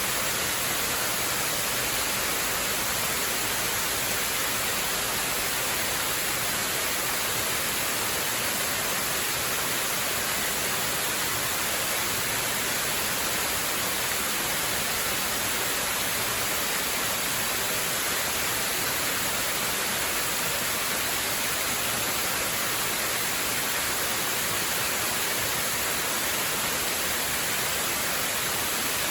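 Waterfall: a steady, unbroken rush of falling water, an even hiss that does not change.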